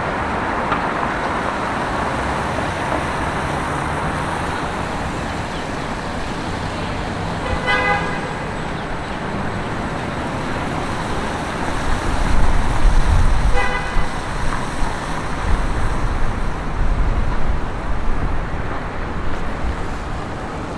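Steady city street traffic noise with two short car-horn toots, about eight and fourteen seconds in. A heavy vehicle rumbles past in the second half, louder than the rest.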